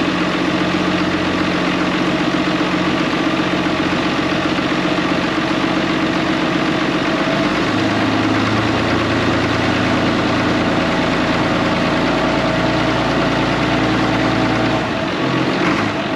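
Farm tractor engine idling steadily just after a cold start on a frosty morning. Its note changes about halfway through and again near the end.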